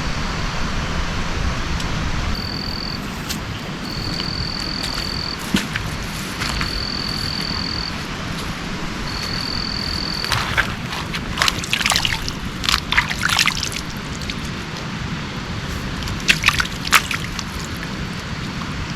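Steady heavy rain. A high, steady whistle sounds four times in the first half, each held about a second, and short bursts of sharp clicks and splashes come in the second half.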